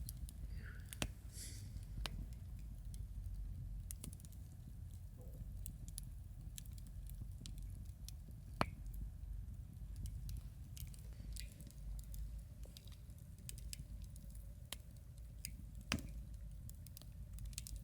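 Campfire wood crackling: a steady scatter of small sharp pops, with a few louder snaps (about a second in, midway, and near the end), over a steady low rumble.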